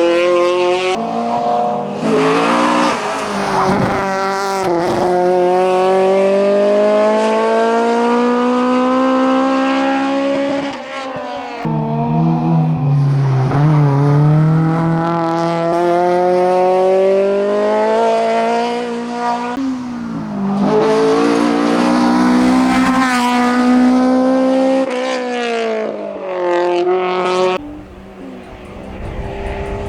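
Racing car engine at full throttle on a hillclimb run, its note climbing steadily through each gear. The revs drop sharply at upshifts, about a third and about two thirds of the way through, and fall away again near the end.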